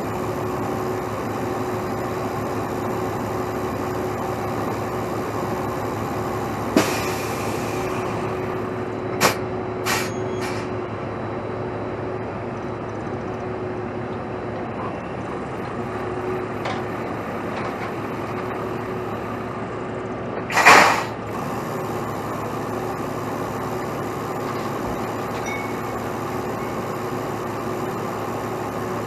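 Heavy diesel truck idling steadily. A sharp click and a short hiss of air come about seven seconds in, then a few clicks, and a louder half-second blast of air from the truck's air brake system about two-thirds of the way through.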